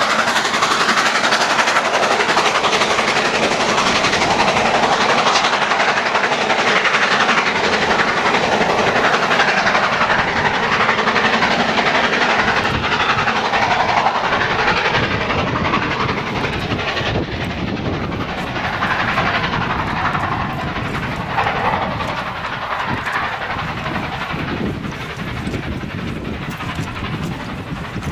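Passenger train passing at speed: the coaches' wheels running and clattering on the rails, with clickety-clack, easing off in the second half as the last coach goes by.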